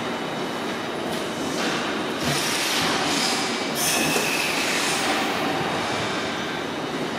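JR Kyushu 885 series limited express at the platform with its doors closing, over steady train and station noise. There are bursts of hiss, the strongest about four seconds in, followed by a faint high tone sliding slowly down.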